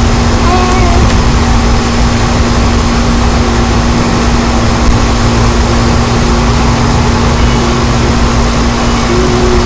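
Strong wind blowing and buffeting the microphone, a loud, steady rumbling roar, with a steady low hum underneath.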